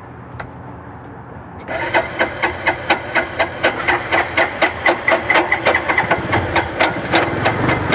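Motorcycle engine being turned over on its electric starter, the compression strokes coming in an even rhythm of about four a second from about two seconds in: the engine is cranking but not yet firing.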